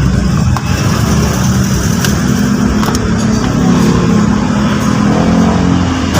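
Vehicle engine idling steadily, a low continuous hum, with a couple of faint clicks.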